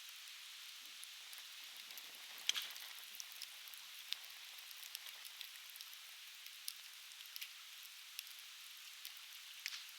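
Conifer firewood burning in an open fire pit, crackling with scattered sharp pops over a steady hiss. The loudest pop comes about two and a half seconds in.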